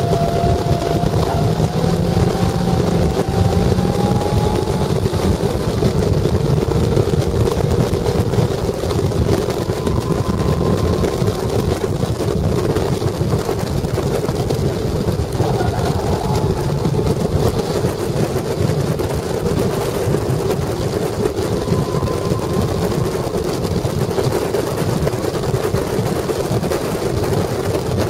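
Caterham Seven's 1.6-litre Ford Sigma four-cylinder engine running hard at racing speed, its note climbing several times and dropping back, heard from the open cockpit with heavy wind and road rush.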